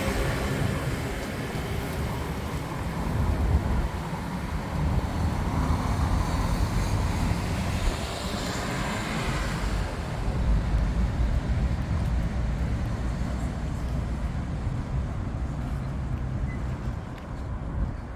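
Street traffic noise, with a vehicle passing about eight or nine seconds in.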